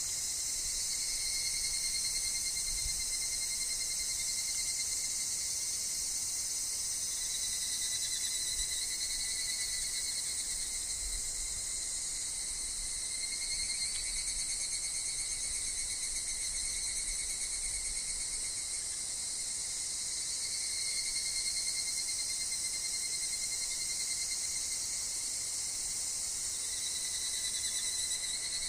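Steady, dense, high-pitched chorus of cicadas and other insects in woodland, among them higurashi (evening cicadas, Tanna japonensis). Their shrill calls swell and shift in pitch now and then.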